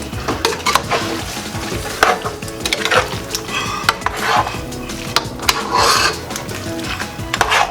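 A spoon stirring a pot of spinach and chicken stew, scraping and clinking against the pot again and again.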